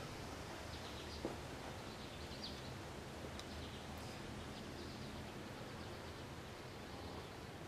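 Quiet outdoor background: a steady low rumble with faint, scattered high chirps, and one small click just over a second in.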